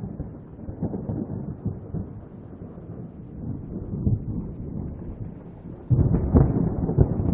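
Thunder rumbling in a storm, growing suddenly louder about six seconds in.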